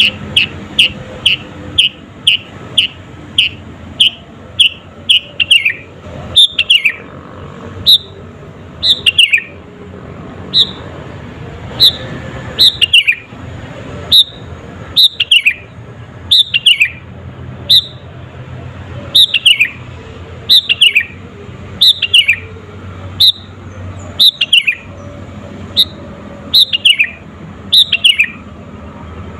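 Sooty-headed bulbul (kutilang) singing: a quick run of short falling whistled notes, about two a second, then from about six seconds in short phrases of two or three falling notes repeated every second and a half or so.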